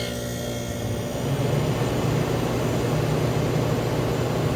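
Vintage Sears View Saver window air conditioner starting up: its fan blows air with a steady low hum from the Tecumseh AE reciprocating compressor. The running sound thickens and gets a little louder about a second in.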